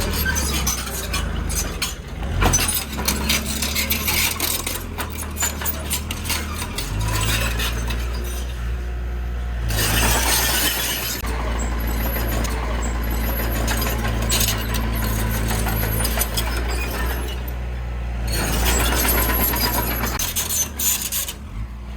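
Heavy diesel machinery running steadily, with metallic rattling and clanking throughout and two longer rushing bursts, about ten seconds in and again near the end.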